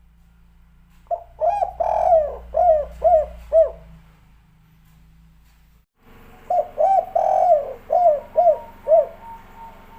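Spotted dove (tekukur) cooing: two song phrases, each a longer rolling coo followed by three short clipped 'kuk' notes, the 'kuk 3' ending.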